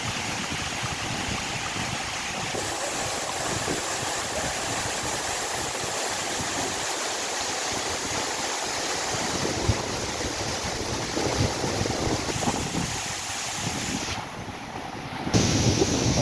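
Waterfall water rushing steadily. About a second before the end, the sound turns into a louder, deeper rumble.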